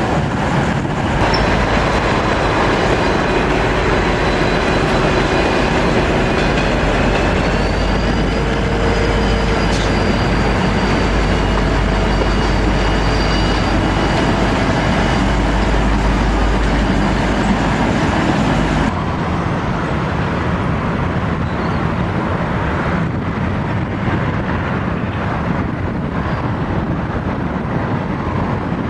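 V/Line VLocity diesel railcar running past on the rails, a steady rumble of engines and wheels with a faint high whine that rises slightly about seven seconds in. After a sudden change about two-thirds of the way through, a quieter, even rolling and engine sound as a V/Line N class diesel locomotive hauling passenger carriages approaches.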